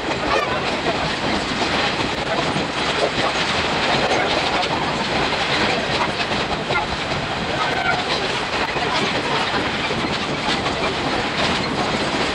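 Ride noise inside a 50-series passenger coach of a steam-hauled train under way: a steady rail rumble with dense rapid wheel clicks.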